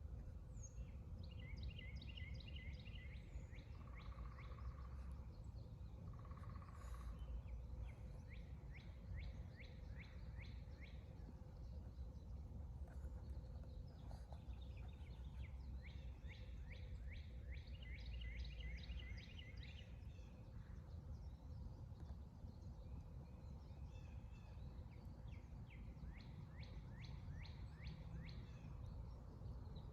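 A songbird sings rapid trills of quickly repeated notes, in spells of several seconds with short gaps between them. Under the song runs a steady low background rumble.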